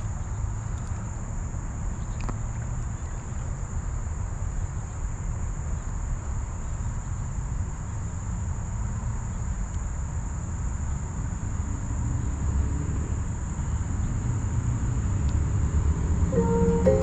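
Steady, high-pitched drone of insects, crickets or similar, over a low rumble; music comes in near the end.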